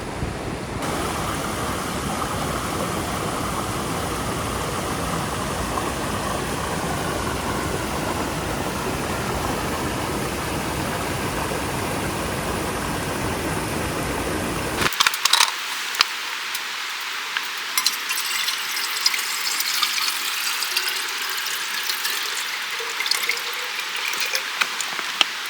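Steady rush of flowing stream water. About fifteen seconds in, the sound cuts abruptly to a thinner background with scattered sharp clicks and taps.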